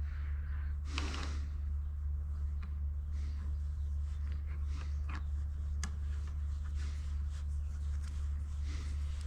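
Steady low hum with scattered light clicks and taps of fittings being handled, and a breath about a second in.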